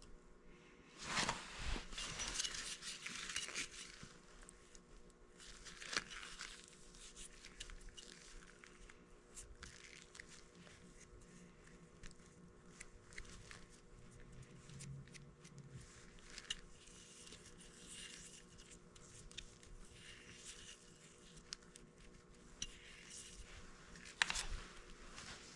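Faint scraping, rustling and scattered clicks of hand work with tools and parts, with a longer scrape about a second in and a sharp click near the end.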